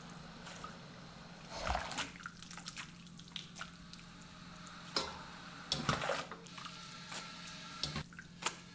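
Water splashing and dripping in short bursts as blanched star jelly (Nostoc ground fungus) is worked by hand in cold water, with a steady low hum underneath.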